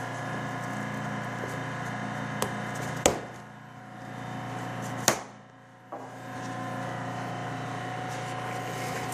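Plastic comb separators being worked into an Aprilaire 201 replacement filter media, with a few sharp clicks, the loudest about three and five seconds in, as they snap into place. A steady hum runs underneath.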